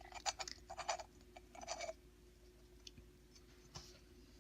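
Faint scratchy rasping of the threaded metal parts of a rust-cleaned grenade body being screwed together, the threads turning smoothly after electrolysis, followed by a few light clicks.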